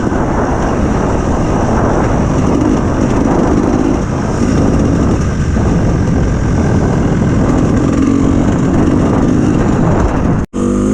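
Enduro dirt bike engine running under changing throttle while riding. Its pitch rises and falls. The sound drops out for an instant near the end, then picks up again with the revs climbing.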